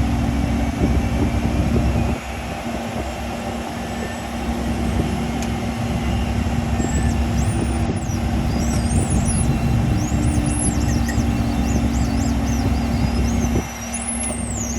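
Learjet 60's turbofan engines running at idle during taxi, a steady hum with constant engine noise underneath.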